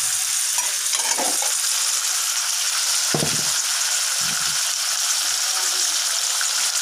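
Balado of eggplant and sausage sizzling in a wok and being stirred with a spatula: a steady frying hiss, with a few brief low sounds about one, three and four seconds in.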